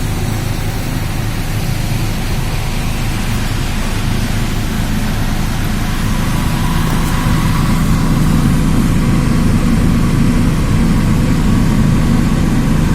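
Steady low machine drone, like a motor or engine running, getting a little louder about seven seconds in.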